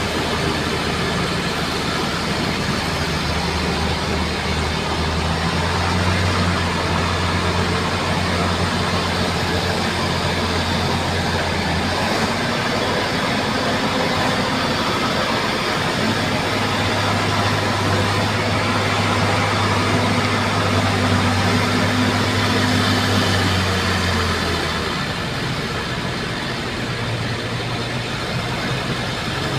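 Bulldozer's diesel engine running steadily under work, its note shifting up and down several times, lower after about 25 seconds in.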